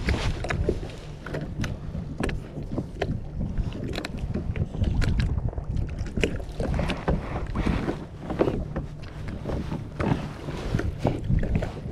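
Wind buffeting the microphone over choppy water around a kayak, with many scattered knocks and splashes against the hull.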